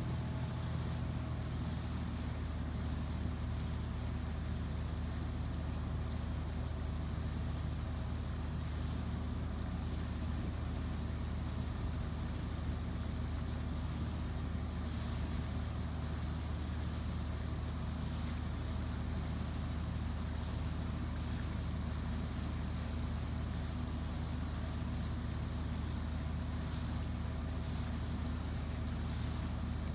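A boat's engine running steadily: a constant low hum with no change in speed.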